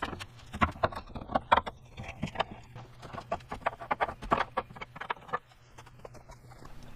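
Steel pry bar levering at a stuck lower control arm mount bracket: irregular metal clanks and knocks that die down about five seconds in.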